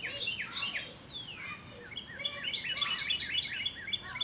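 Small birds chirping: a few falling chirps, then a quick run of short chirps about two seconds in.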